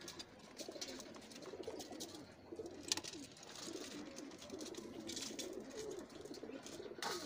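Birds calling, short low calls repeated over and over, with a sharp click about three seconds in and a brief rustle near the end.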